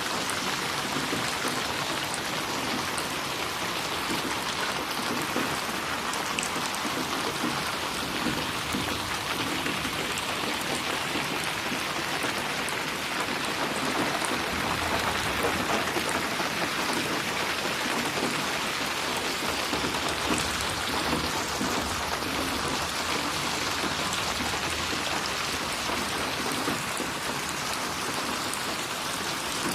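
Steady rain falling, with dense patter of drops splashing on a surface.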